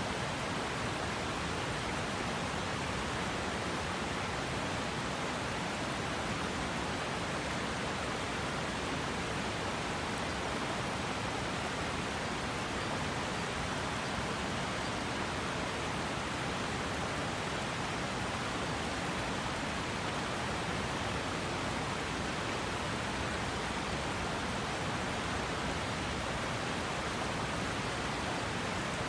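A river rushing steadily, an even wash of flowing water with no breaks or changes.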